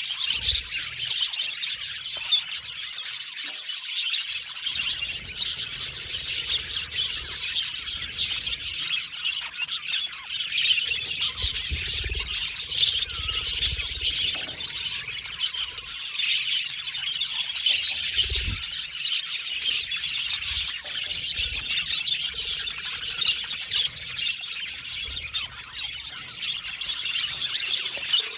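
A flock of budgerigars chirping and warbling, many birds calling at once in a dense, continuous chatter.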